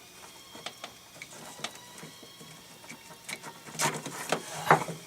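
Scattered small clicks and knocks of a wiring plug and parts being handled inside a Rock-ola 443 jukebox as a connector is worked apart, with a louder run of knocks and rattles about four seconds in.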